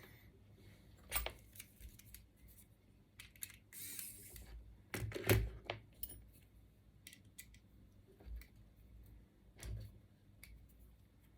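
Small tools and extruder parts being handled on a bench: scattered clicks and light knocks of metal and plastic, with a short scraping rustle about four seconds in and a louder knock just after.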